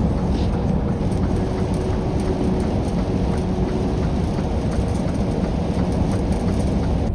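Hard rain hitting a semi-truck's cab, many small irregular taps over the steady low rumble of the truck running on the road.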